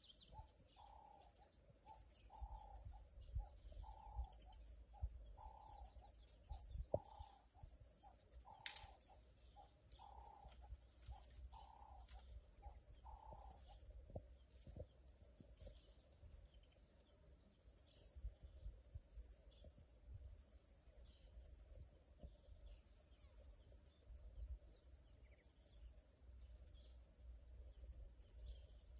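Faint bird calls: a short note repeated about once a second through the first half, over a steady high-pitched buzz and a low rumble.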